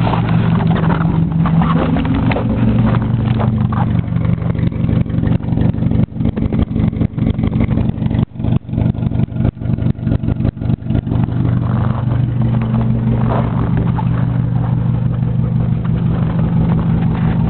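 A 1987 Nissan Sentra's carbureted 1.6-litre four-cylinder engine at a really slow idle shortly after a cold start. Midway through the running turns uneven and choppy for a few seconds, then settles back to a steady idle.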